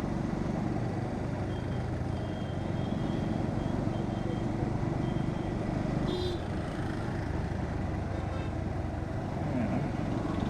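Bajaj Pulsar NS125 single-cylinder motorcycle engine running at steady speed, with wind and road noise on the rider's microphone. Faint intermittent beeping early on and a short high-pitched horn-like tone about six seconds in come from the surrounding traffic.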